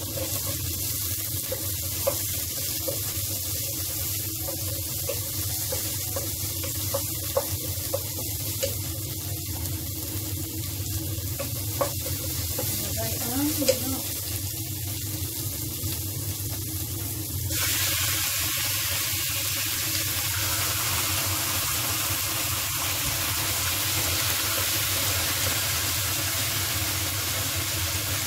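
Garlic and onion sautéing in hot oil in a pot: a steady sizzle with occasional taps of a wooden spatula against the pot. About two-thirds through, the sizzle suddenly jumps louder and brighter as raw chicken pieces go into the hot oil.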